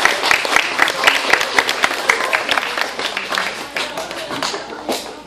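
Audience applauding with dense, rapid clapping that thins out and fades over the last second or so.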